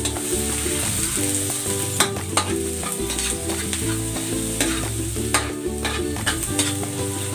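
Minced ginger and garlic sizzling in hot oil in a metal wok, stirred with a metal spatula that scrapes and clicks against the pan.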